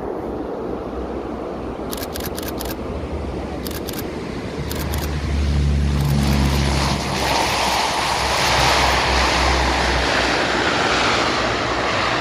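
Aircraft flying past, a broad engine noise with low rumble that swells about halfway through and stays loud. A few groups of short sharp clicks sound in the first half.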